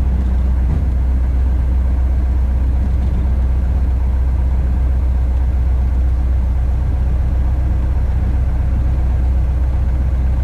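Van's RV-8's piston engine and propeller running at low power after landing, a steady low drone.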